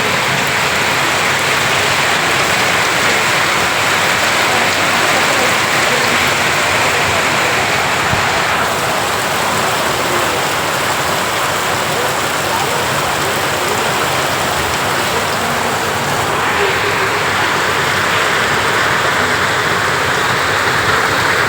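Heavy rain falling and splashing on hard surfaces, a steady dense hiss.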